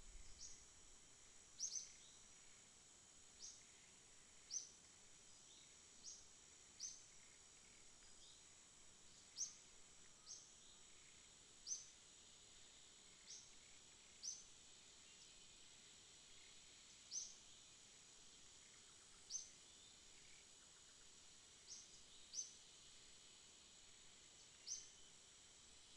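Night ambience: a steady high-pitched insect drone with short, high chirps repeating irregularly about every one to two seconds.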